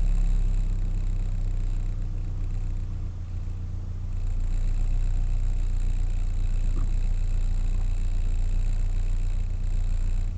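Car engine idling steadily with an even low hum, heard from inside the stationary car's cabin.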